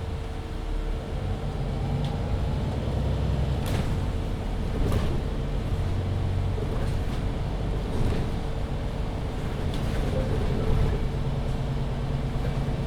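MAN Lion's City 19C EfficientHybrid articulated bus with Voith automatic gearbox driving, heard from inside: a steady low drive drone with a constant whine over it. A few short rattles or clicks come at intervals.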